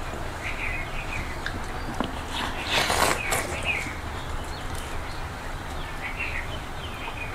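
Small birds chirping now and then over a low steady hum, with a brief loud noisy rush about three seconds in.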